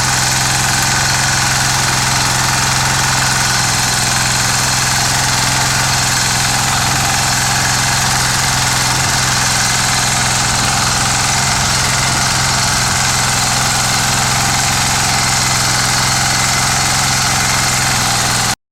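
Power tiller engine running steadily at a constant speed, then cutting off abruptly near the end.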